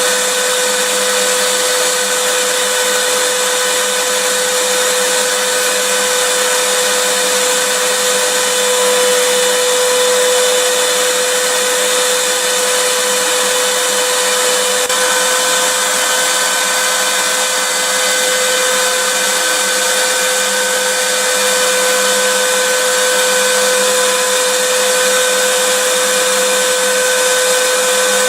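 Vacuum cleaner running steadily: a constant rushing hiss of air with a steady motor whine, unchanging throughout.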